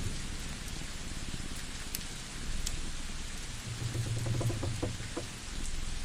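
Crackling wood fire with sharp pops and a steady hiss, layered over a cat's low purring rumble that swells louder about four seconds in.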